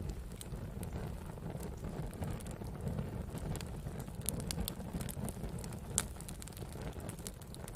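Wood campfire burning: a steady low rumble with scattered crackles and pops, one sharper pop about six seconds in.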